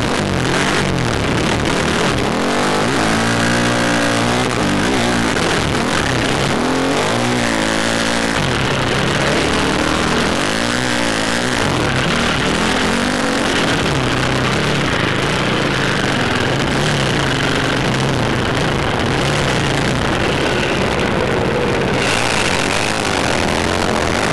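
Dirt bike engine revving hard, its pitch rising and falling several times in the first half and then holding steadier. Heavy wind noise rushes over the helmet-mounted microphone throughout.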